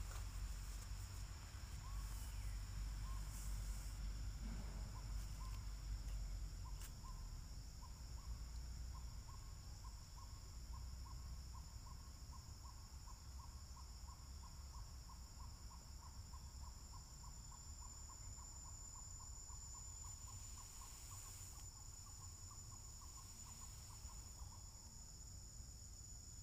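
A bird calls one short note over and over, a few scattered notes at first, then a steady series of about two to three a second that stops shortly before the end. Behind it, insects keep up a steady high-pitched drone.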